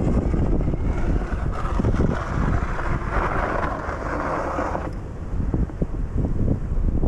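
Wind buffeting the microphone, with a steady hiss from about a second and a half in that cuts off suddenly about five seconds in.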